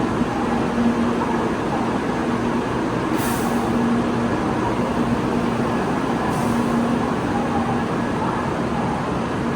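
Steady rumble of a train, with a low hum that comes and goes and two brief hisses about three seconds apart.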